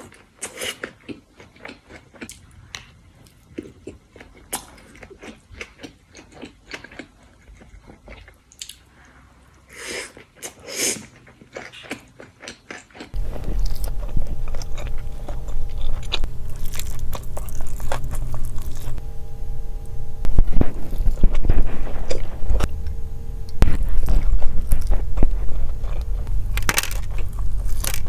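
Close-miked eating: biting, chewing and crunching into food, with sharp smacks and clicks. About halfway through it changes abruptly to louder eating over a steady low hum.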